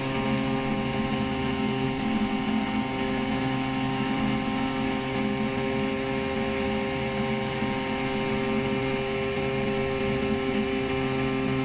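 Engine and propeller of a homemade flying boat running steadily, a constant drone that holds one pitch without revving up or down.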